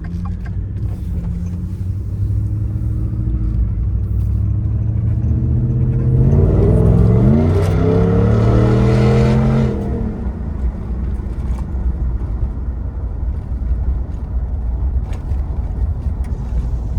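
Roush-supercharged 6.2-litre V8 of a Ford F-150 SVT Raptor heard from inside the cab with the rear window down. It runs steadily, then about six seconds in the note rises and grows loud under hard acceleration, holds for a few seconds, and drops back near ten seconds as the throttle is released. The supercharger whine is barely audible.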